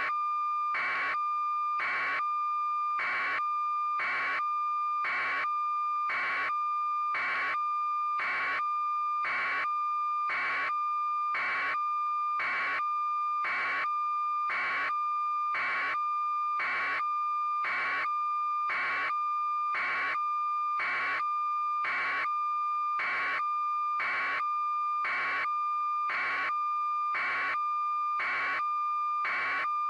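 A steady high electronic tone with a regular pulse about once a second, repeating unchanged.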